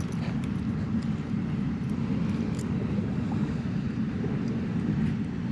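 Steady low roar of floodwater pouring through a spillway, an unbroken rush with no rise or fall.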